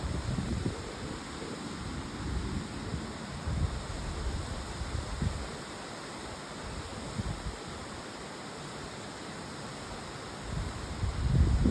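Strong wind buffeting the microphone in irregular low gusts over a steady hiss, with the strongest gust near the end.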